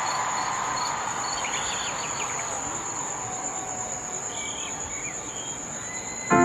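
Steady high-pitched cricket chirring with scattered short chirps, over the even noise of a large stadium crowd that slowly grows quieter.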